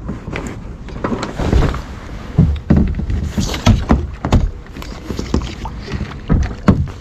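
Kayak on the water: irregular hollow knocks and bumps against the hull, with splashy water noise between them.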